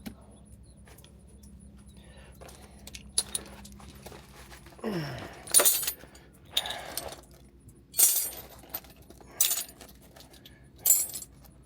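Short metallic jingles and clinks, about six of them spaced a second or two apart, like keys or small metal parts being shaken or handled.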